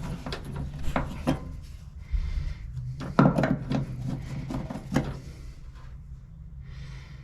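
Irregular knocks, clicks and scraping of hands and tools working at an old fuse panel to pry it loose, with a few sharper knocks about a second, three seconds and five seconds in.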